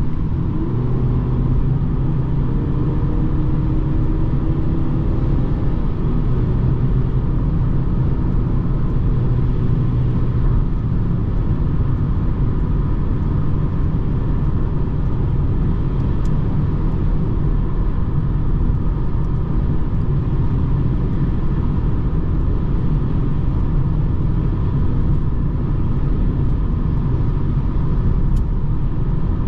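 BMW 220d xDrive Gran Coupe driving, with a steady low rumble of engine and road noise. Its four-cylinder diesel's note rises gently over the first few seconds, then settles into an even drone.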